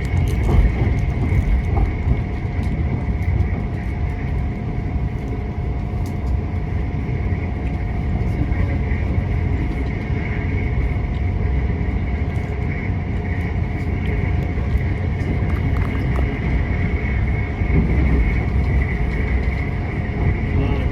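Moving passenger train heard from aboard: a steady, heavy rumble of wheels on the rails, with a faint steady high tone above it.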